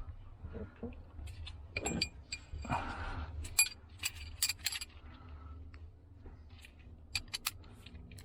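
Metal tool clinking and tapping against metal as the fuel pump lock-ring tool is set in place: a series of sharp clinks, with a brief rustle about three seconds in.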